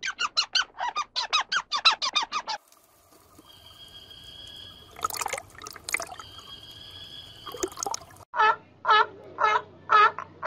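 A fox squirrel chatters in a fast run of short calls, about five a second. It is followed by dolphins underwater: two long, steady high whistles with sharp clicks between them. Then a sea lion calls underwater in repeated short barks about half a second apart.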